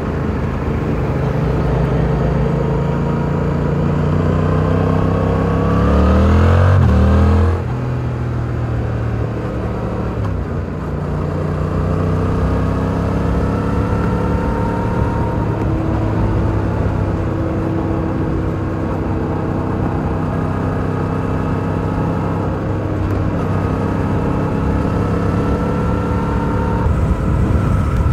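2022 Yamaha R7's stock-exhaust parallel-twin engine under way. Its revs climb to their loudest about seven seconds in, fall away sharply, then settle into steady cruising with gently rising revs.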